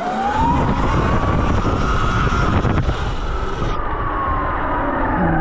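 Motorbike engine revving, its pitch rising for about two seconds and then falling slowly as the throttle eases off, over steady wind noise on the microphone.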